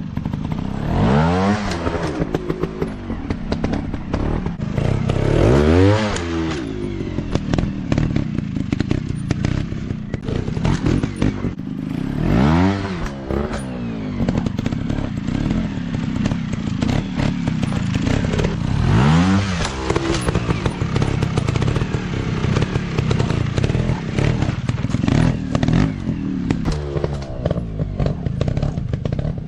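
Dirt bike engines running, revving up and dropping back four times, about every six seconds, over a steady low engine note with rattling clicks and knocks throughout.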